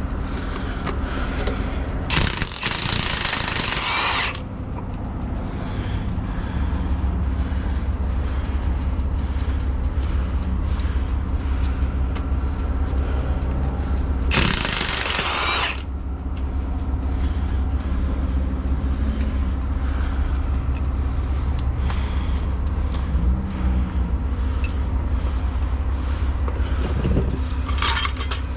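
Two bursts from a power impact wrench, one about two seconds long a couple of seconds in and a shorter one near the middle, over the steady low running of an idling truck engine.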